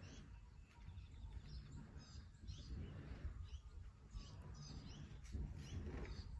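Wild birds chirping and calling in many short, separate notes over a low steady rumble.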